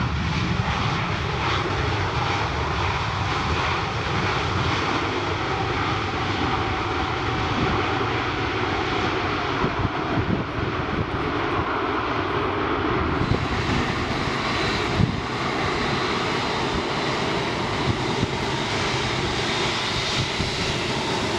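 Airliner engines running, a steady loud noise that neither rises nor falls.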